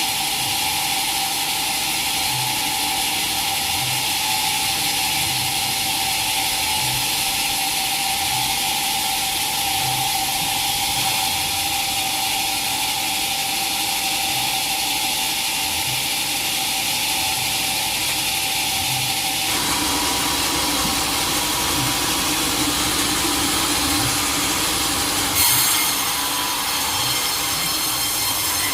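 Sawmill saw running steadily through a teak log, a continuous hiss with a steady tone. The sound changes abruptly about twenty seconds in and again about six seconds later.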